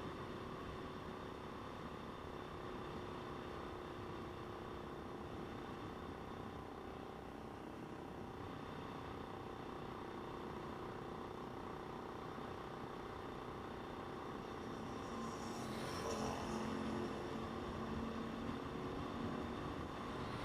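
Motorcycle engine running while riding, under steady wind and road noise. The sound grows louder for a few seconds about fifteen seconds in.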